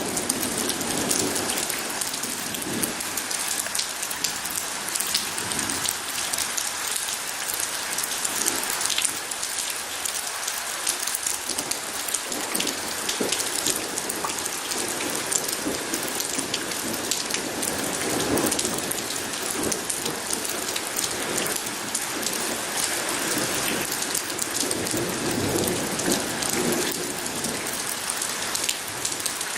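Steady heavy rain pattering on a surface, dense with individual drop ticks, with a few low swells of distant thunder rumbling underneath, near the start, about two-thirds through and near the end.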